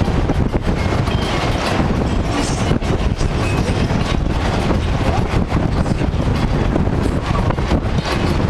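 Strong wind buffeting the microphone: a loud, continuous low rumble with irregular gusty thumps.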